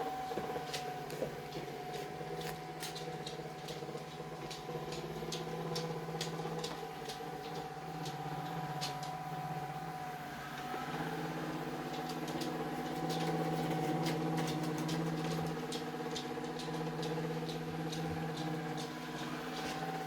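Vacuum cleaner motor running with a steady hum that changes tone about halfway, with many sharp clicks and ticks over it.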